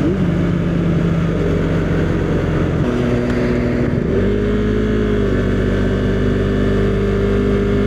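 Husqvarna Svartpilen 401's single-cylinder engine running under way, its pitch stepping up about three seconds in and again about a second later.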